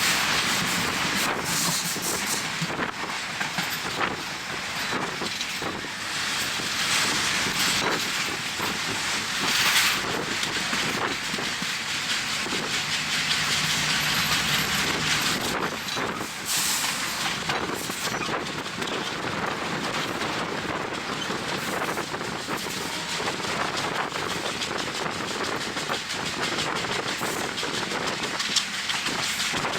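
Passenger train running on the rails, its wheels clacking over rail joints, with wind rushing over the microphone at the open window. The sound holds a steady, noisy rush throughout.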